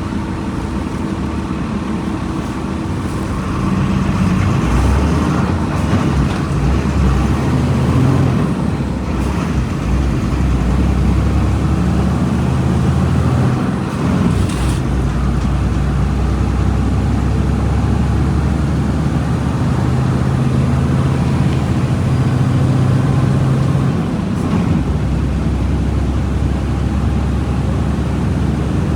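Volkswagen Volksbus 17.230 EOD bus's diesel engine running under way. It gets louder about four seconds in, and its pitch steps and changes several times, with a dip around the middle and again near the end.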